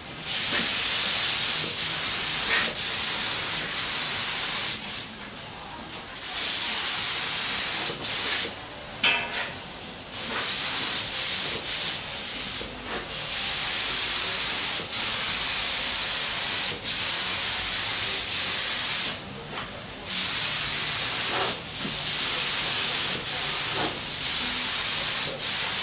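Paint being sprayed onto a motorcycle frame and parts: a loud, steady hiss that comes in passes of a few seconds each, stopping briefly between passes.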